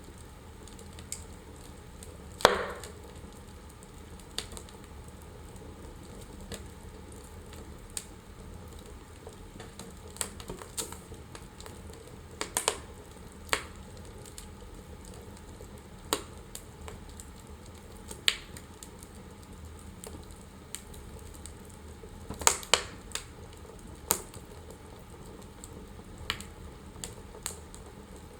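Wood fire in a fireplace crackling: a steady low rush with scattered sharp pops at irregular intervals, the loudest about two and a half seconds in and a quick pair near the end.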